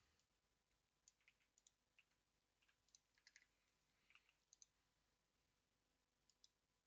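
Faint computer keyboard clicks, a dozen or so keystrokes at irregular intervals, over near silence.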